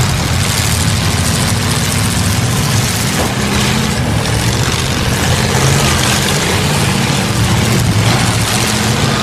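Several demolition derby cars' engines running loudly at once as the cars manoeuvre on a dirt arena.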